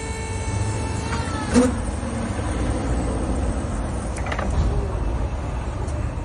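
Lansing counterbalance electric forklift's electric motor whining steadily, cutting off about a second in. A sharp clunk follows and, later, a lighter knock, over a continuous low rumble.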